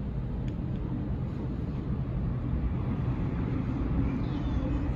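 Sydney Trains Waratah electric train running between stations, heard from inside the carriage: a steady low rumble of wheels and running gear.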